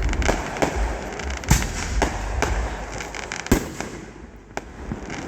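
Fireworks display going off: a string of sharp bangs and crackles at irregular intervals, two of them louder about a second and a half and three and a half seconds in, over a steady low rumble.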